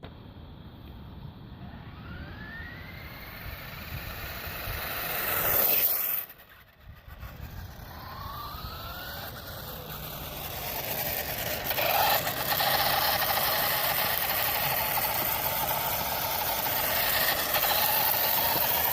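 Radio-controlled toy truck running, its motor and gears whining up in pitch several times as it speeds up. The sound drops away briefly about six seconds in, then runs on steadily and louder.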